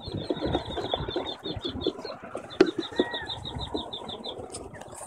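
Quail chick calls, a fast even run of short high peeps at about seven a second that stops for a moment around two seconds in and then starts again. Rustling and handling noise sit underneath, with a single sharp click in the middle.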